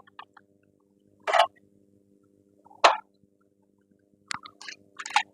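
Sharp clinks and knocks of tools and parts being handled during work on a car's front strut: two single knocks, then a quick cluster of clicks near the end, over a faint steady hum.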